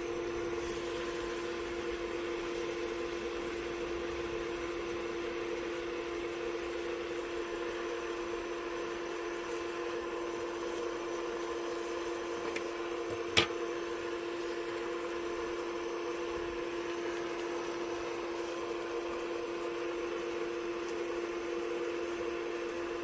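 A steady mechanical hum with a constant pitch, broken once by a single sharp click a little past halfway.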